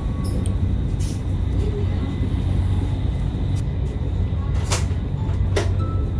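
Steady low rumble of a Chinese high-speed train running at speed, heard from inside the carriage vestibule. Two sharp knocks come close together near the end.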